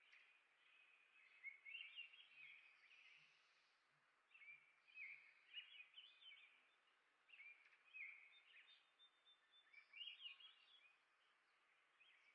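Faint songbird song: short phrases of quick rising and falling notes, repeated every three to four seconds over a steady hiss.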